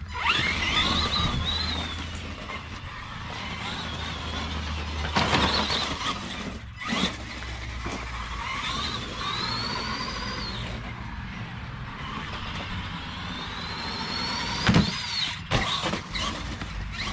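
Axial SMT10 Grave Digger RC monster truck driven on gravel: its electric drive whines up and down in pitch as the throttle is worked, over a steady crunch of tyres and gravel, with a few sharp knocks as it lands or hits the course.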